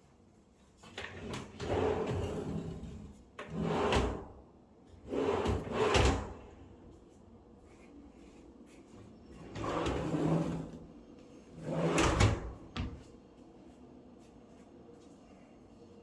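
Drawers and cabinet doors being opened and closed about five times, each a short sliding rush that ends in a knock.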